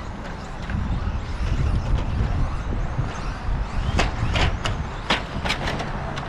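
Radio-controlled 2WD stadium trucks racing on the track: a steady low rumble, with a quick run of sharp clacks between about four and five and a half seconds in.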